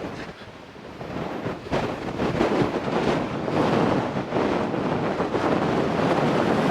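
Strong wind buffeting the microphone: a loud, rushing noise that gusts up and down, dipping briefly near the start and then rising.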